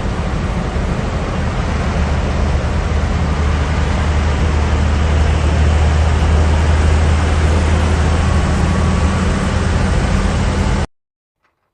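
A steady engine rumble with a strong low hum under a rushing noise, like a motor vehicle running, that cuts off suddenly near the end.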